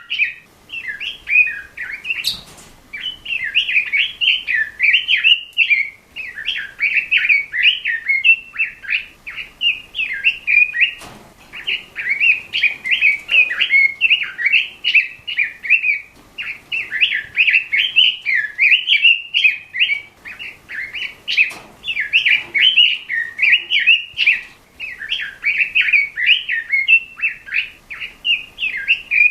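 Pekin robin (red-billed leiothrix) singing continuously: fast, bubbling warbled phrases in quick succession with short pauses between them. A few brief clicks come through now and then.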